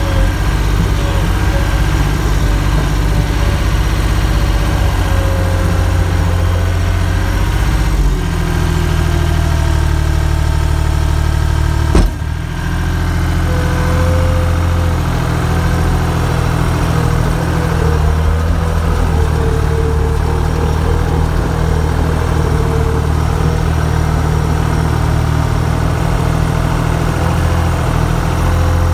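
A motor vehicle engine running steadily at idle, with a low rumble that shifts slightly about eight seconds in and a single sharp click about twelve seconds in.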